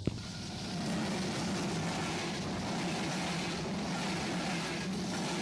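A train passing close by on the tracks: a steady rumble and rush of wheels and carriages, growing a little louder about a second in.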